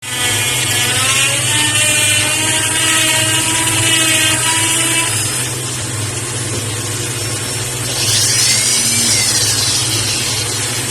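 A power tool running, with a steady motor hum under a whine that slowly shifts in pitch, then rises and falls again near the end.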